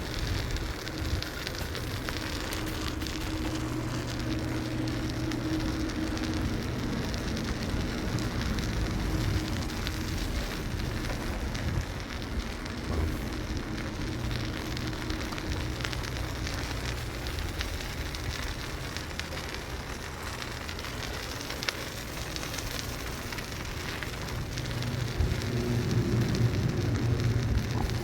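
Steady rushing noise of a bicycle ride: wind on the microphone and the tyres rolling on pavement. A low hum joins in and grows louder for the last few seconds.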